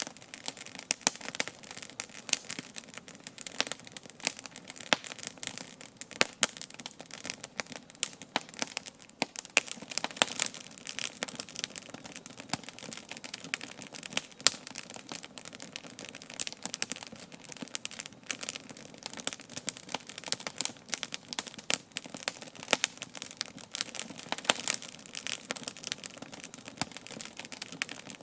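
Wood campfire crackling, a dense irregular run of sharp snaps with some louder pops standing out.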